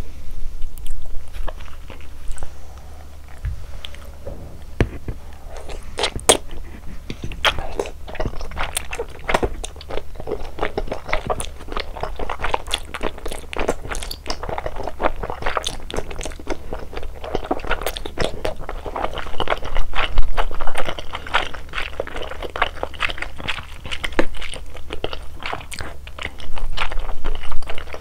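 Close-miked chewing and crunching of malatang, a dense run of irregular crisp bites and mouth clicks.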